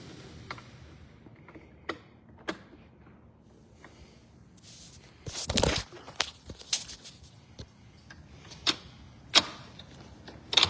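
Large sliding glass door being handled: scattered sharp clicks and knocks, with a louder rushing slide of about half a second roughly halfway through.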